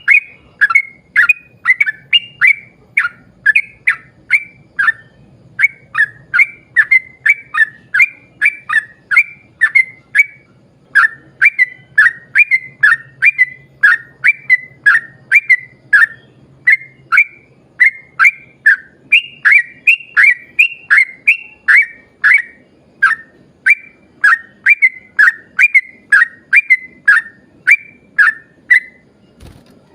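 Yellow-vented bulbul (trucukan) singing a long rapid run of short, sharp whistled chirps, about three or four a second, broken by brief pauses every few seconds.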